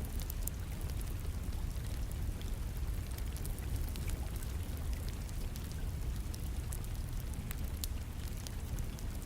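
Wood fire crackling, with scattered sharp pops and clicks, over the steady rush of rain.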